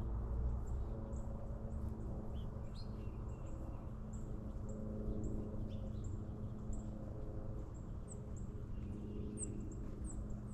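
Small songbirds at backyard feeders calling: many short, high chips scattered through the whole stretch, with a few lower calls, over a steady low hum.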